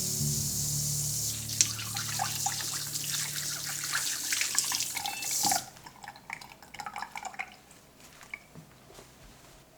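Kitchen tap running water into a sink, shut off suddenly about five and a half seconds in, followed by a few light clicks and knocks of handling.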